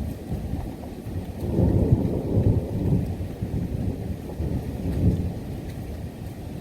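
Thunder rumbling with rain falling. The low rumble swells about a second and a half in and surges again near the end.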